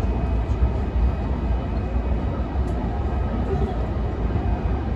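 Running noise inside a JR East E233-1000 series electric train car at speed: a steady low rumble of the wheels on the rails with an even hiss above it.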